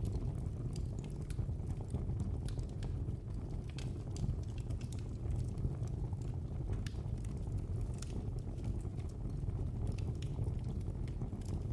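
Fire in a fireplace crackling: irregular small pops and snaps over a low, steady rumble.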